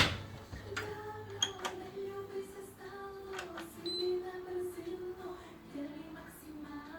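A voice singing or humming softly in long held notes that step down in pitch near the end, with a few sharp clicks, the loudest right at the start.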